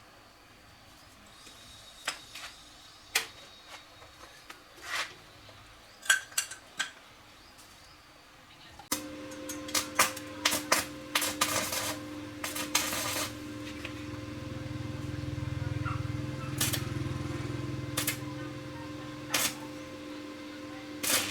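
Sharp metallic clinks and taps of tools and small metal parts being handled. About nine seconds in, a machine switches on and runs with a steady hum, its low rumble swelling in the middle, while the clinking goes on over it.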